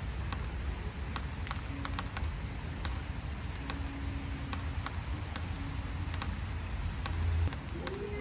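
Outdoor rain ambience: wind buffeting the microphone as a low rumble, with a stronger gust about seven seconds in, over a light hiss of rain and scattered sharp ticks of raindrops.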